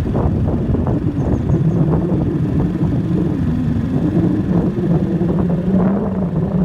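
Strong storm wind rushing and gusting, buffeting the microphone as a dense low rumble. A steady low hum runs underneath from about a second and a half in.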